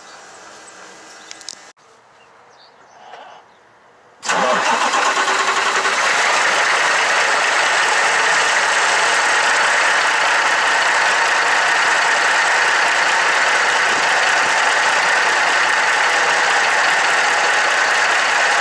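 Volvo VNL truck's diesel engine starting about four seconds in, right after hand-priming of the fuel system that follows a fuel filter change, then running steadily and loud. A click comes shortly before it.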